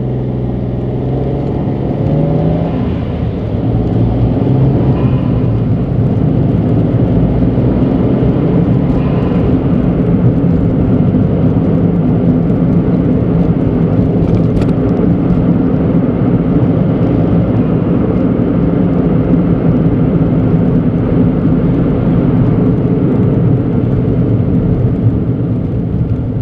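Suzuki Alto Turbo RS's turbocharged 660 cc three-cylinder engine heard from inside the cabin, rising in pitch as the car pulls away over the first few seconds, then settling into a steady drone of engine and road noise while cruising.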